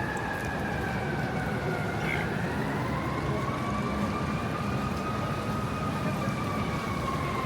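Emergency vehicle siren in a slow wail: its pitch sinks, rises again about halfway through, then eases down. It sounds over a steady rumble of city traffic.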